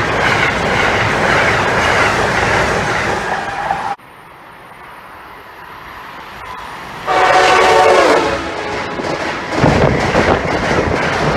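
A train passing with the rush and clatter of wheels on rail, then after an abrupt cut another train approaches and sounds its air horn for about two seconds, followed by the loud rush of the train going by.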